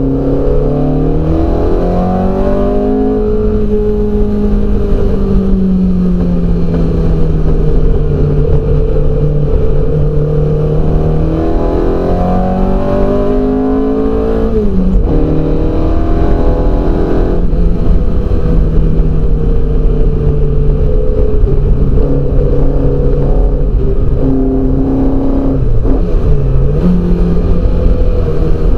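TVR Vixen's engine heard from the onboard camera at racing speed, the note climbing under acceleration and falling back when lifting and braking for corners. It drops sharply about halfway through and dips again near the end.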